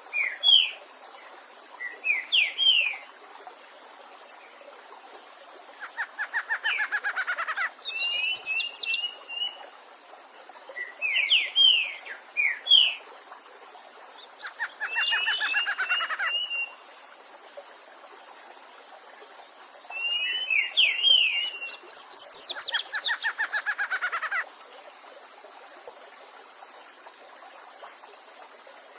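Songbirds singing over a steady rush of creek water. About every eight seconds comes a fast run of many rapid notes lasting about two seconds. Between the runs are small groups of short, quick slurred whistles.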